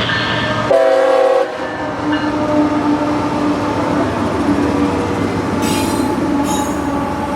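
A CSX freight train rolls by with a steady wheel squeal on the rail. A locomotive horn gives one short blast about a second in, and brief high hissing bursts come near the end.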